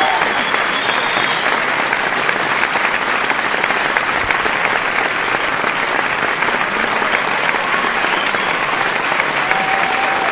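Applause: many people clapping in a dense, steady patter without a break.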